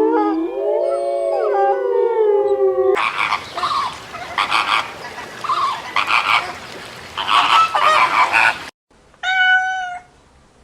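Instrumental music for the first three seconds, then a stretch of repeated animal calls over a noisy background that cuts off suddenly. After a brief silence comes a single short, high-pitched animal call.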